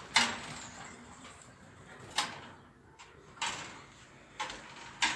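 Five sharp knocks or taps at irregular intervals, each with a brief fading tail, over a quiet background.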